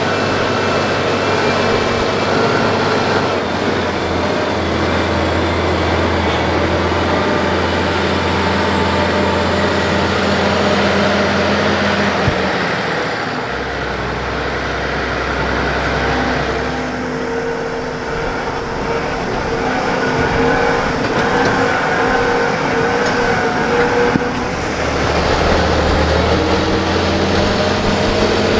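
Case IH Steiger 9370's turbocharged six-cylinder Cummins N14 diesel engine working under load while pulling a cultivator. Its note shifts and eases off for a few seconds around the middle, then picks up again.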